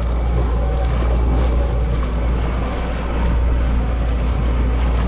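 Boat motor running steadily with the boat underway, wind rumbling on the microphone. It drops away right at the end.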